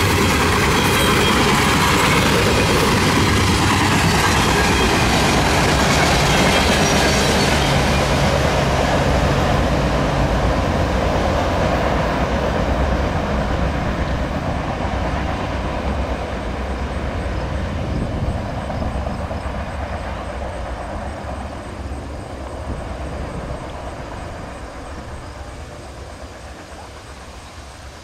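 Freight train of refrigerated boxcars rolling past at speed, loud at first; after about ten seconds the last car goes by and the sound fades steadily as the train moves away.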